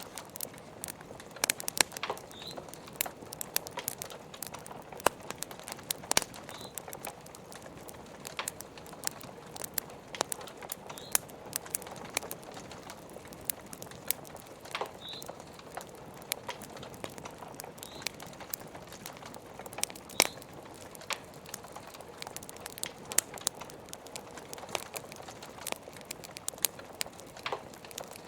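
Wood fire crackling, with irregular sharp pops and snaps over a steady hiss of rain, and a few short high chirps now and then.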